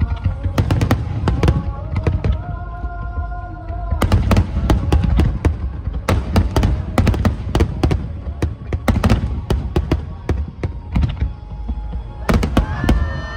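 Large display fireworks bursting and crackling in rapid, dense succession, over music with sustained notes.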